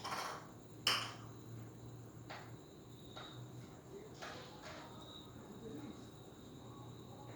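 Pet budgerigars giving a few short, scratchy chirps, the loudest about a second in, over a steady low hum.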